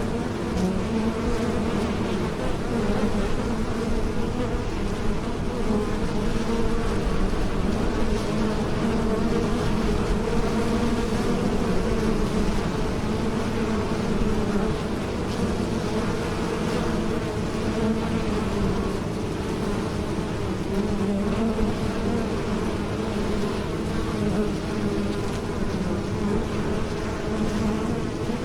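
Honeybees buzzing in flight, a steady dense hum of many wingbeats overlapping, wavering slightly in pitch.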